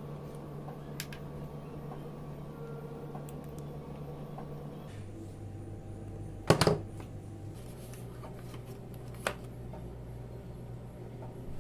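Steady low hum of room tone with a few sharp clicks and knocks of something being handled: a loud clatter about six and a half seconds in and a single click near nine seconds. The hum shifts pitch about five seconds in.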